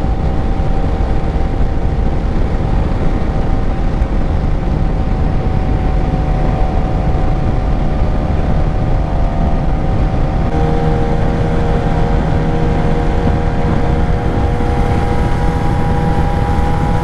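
Suzuki GSX-R 600 inline-four engine running at a steady cruise, heard from the rider's position. About ten seconds in, its note steps slightly and then climbs slowly.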